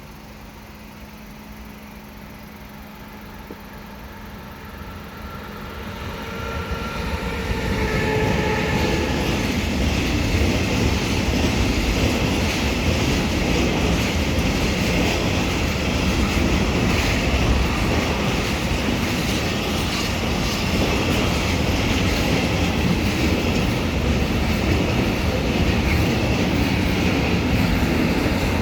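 Freight train approaching, growing louder over the first eight seconds with a brief pitched whine, then passing steadily as its wagons roll by with a continuous rumble and clatter of wheels on the rails.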